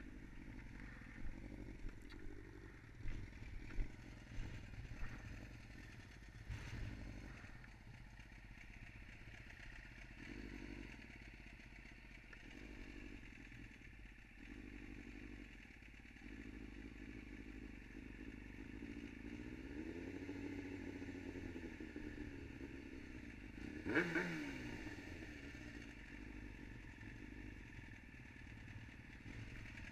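Yamaha R6's inline-four engine running at low revs as the bike rolls along and pulls up at the curb. There are a few knocks in the first several seconds and one sharp knock later.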